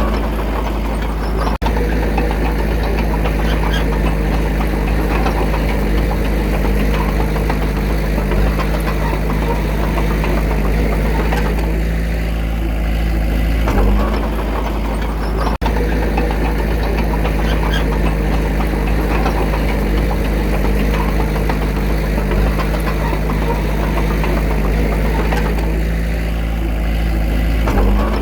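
Diesel engine of heavy earthmoving equipment running steadily, with a deep rumble. The sound cuts out for an instant twice, once near the start and once just past halfway.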